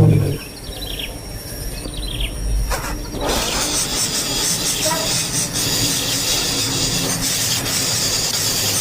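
A bird cheeping in short, repeated falling chirps, with a brief loud knock at the very start. About three seconds in, a steady high hiss takes over.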